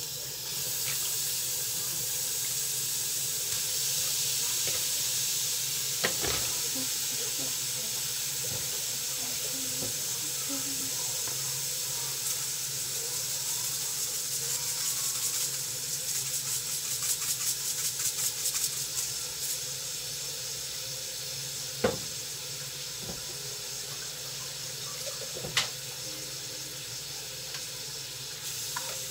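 Shrimp frying in butter in a skillet: a steady sizzle with crackling pops through the middle stretch. There are a few sharp knocks against the pan.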